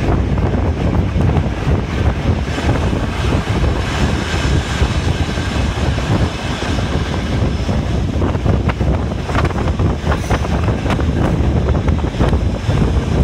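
Wind rushing over the microphone at the window of a moving steam-hauled passenger carriage, over the train's steady running noise, with scattered clicks.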